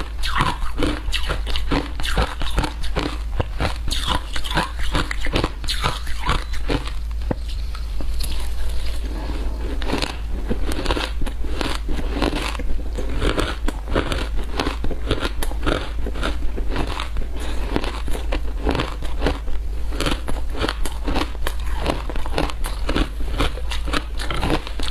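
Close-up crunching and chewing of frozen matcha ice: a dense, irregular run of hard crunches as the ice is bitten and broken between the teeth.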